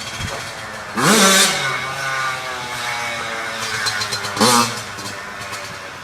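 Yamaha YZ85 two-stroke dirt bike engine revving as it is ridden. The throttle snaps open sharply about a second in and again about four and a half seconds in, with the engine running at steadier revs between.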